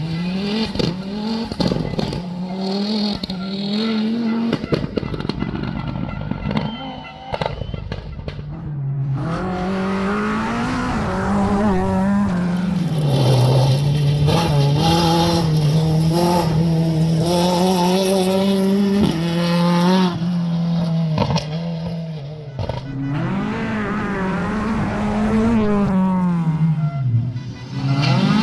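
Rally car engines revving up and down through the gears, in three separate runs with short lulls between them.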